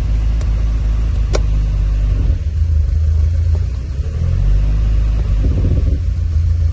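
1970 Opel GT's four-cylinder engine idling steadily, heard from inside the cabin, with a sharp click about a second and a half in as the automatic gear selector is moved. The engine note shifts a couple of times, and the car sounds all right.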